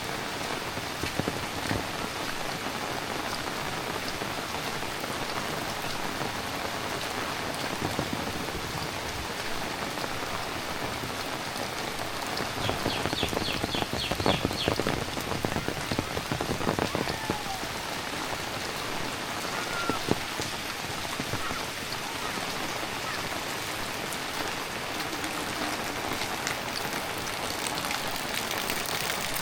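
Heavy rain falling steadily, a dense hiss of drops on surfaces. About halfway through, a few seconds of louder, closer drop hits and small knocks stand out.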